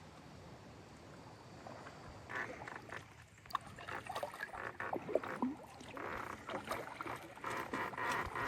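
Canoe paddle strokes splashing in the water, starting about two seconds in, irregular, with scattered small clicks and knocks.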